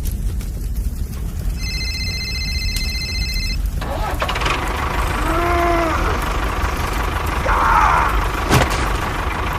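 A steady low engine rumble. Over it are a held electronic tone in the first few seconds and an arching tone that rises and falls about halfway through.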